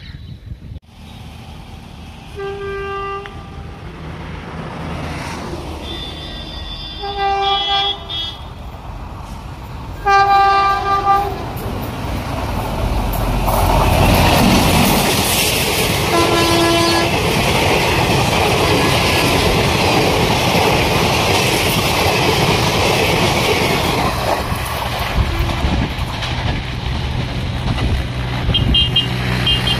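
Indian Railways locomotive horn sounding three short blasts as a train comes through, then a loud, steady rush and rumble of the passing train. A fourth, lower horn blast sounds partway through the pass.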